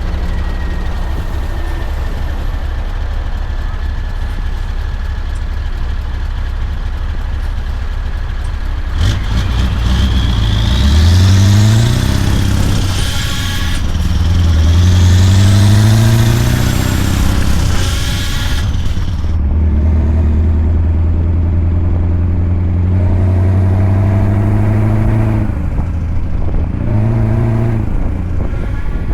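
Scania V8 truck engine pulling under load, its note climbing twice as it accelerates through the gears about ten and fourteen seconds in, then running at a steady pitch.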